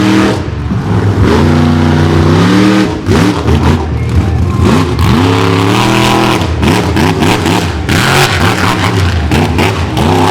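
Monster truck engine revving hard and loud, its pitch climbing and dropping again and again as the throttle is worked.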